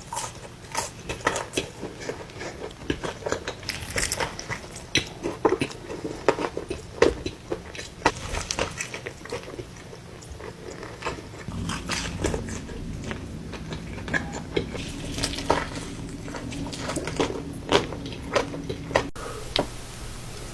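Close-miked eating of In-N-Out fast food: bites and chewing with many short, sharp, crunchy clicks. A low steady hum joins in about halfway through, and the background changes abruptly near the end.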